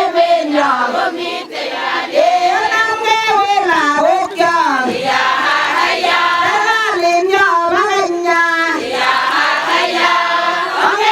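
A choir of high voices singing together, with held notes and a rising and falling melody.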